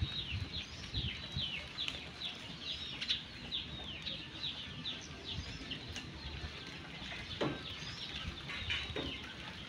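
Small birds chirping: a run of short, high, falling chirps, a few a second, on and on.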